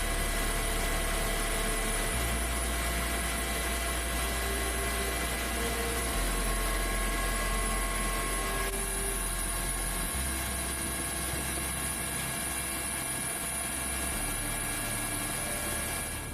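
Steady engine and airflow noise of a Coast Guard aircraft in flight, with a constant hum of tones; the tones shift slightly about nine seconds in.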